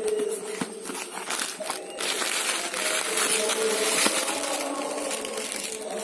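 Packaging being handled and opened, a dense crackling rustle with small clicks that grows louder about two seconds in.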